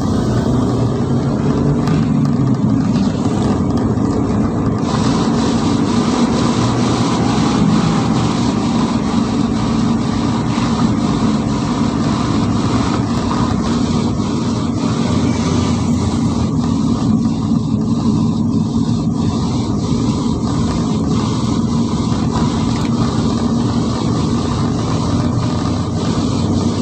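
Ambulance driving at a steady speed: continuous engine and road noise with an even, low hum.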